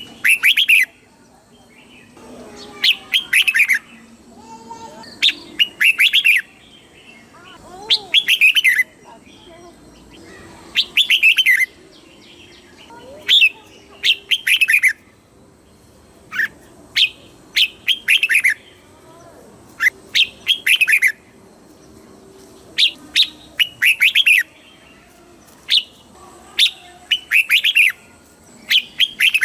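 Red-whiskered bulbul singing its short, rapid, bubbling song phrase over and over, one phrase every two to three seconds, with fainter bird calls between the phrases.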